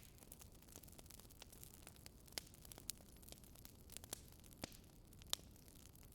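Wood fire in a fireplace crackling quietly, with irregular sharp pops and snaps over a low steady rumble.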